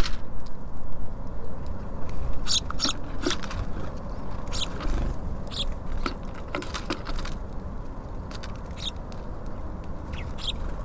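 Small songbirds at a bird feeder giving short, high chirps, a few at a time and scattered through the stretch, over a steady low rumble of background noise.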